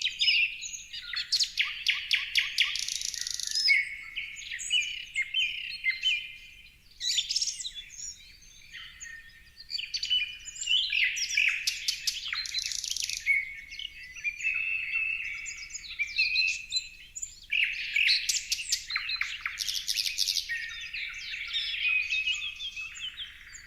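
Several songbirds chirping and singing at once, a busy mix of quick trills, rapid clicking rattles and short whistled notes.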